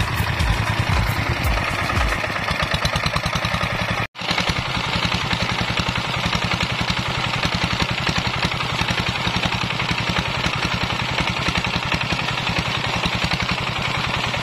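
Kubota 8 hp single-cylinder diesel engine running steadily with a fast, even clatter of firing strokes, now running again after a seized piston was freed. The sound cuts out abruptly for an instant about four seconds in, then the running resumes.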